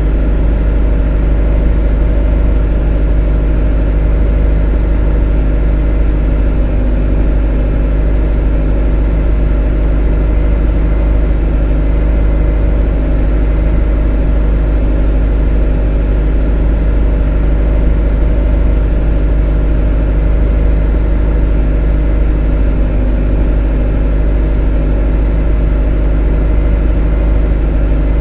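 A motor running at a steady, unchanging speed: a constant deep hum with a low rumble underneath.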